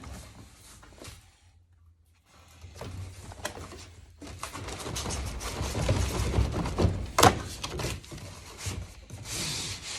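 Cardboard packaging being handled and pulled about, with rubbing and scraping that picks up about four seconds in and a sharp knock a little past seven seconds.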